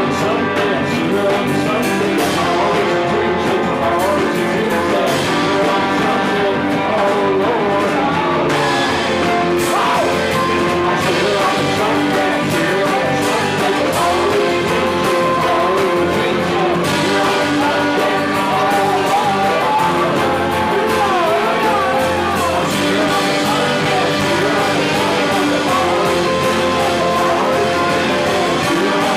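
Live rock band playing a song with a singer, recorded loud and full through the room.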